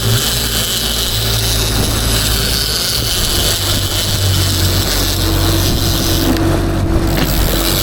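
Fishing boat's engine running steadily under way, a low hum with a steady hiss over it.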